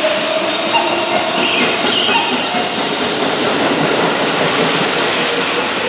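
Keihan electric commuter train passing through a station without stopping: a steady rush of steel wheels on rails, with clickety-clack from the running gear.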